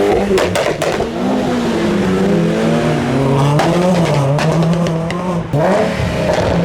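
Car engine revving as a modified car drives off, its pitch rising, holding with small wobbles, then dipping and climbing again about five and a half seconds in. A few sharp cracks come in the first second.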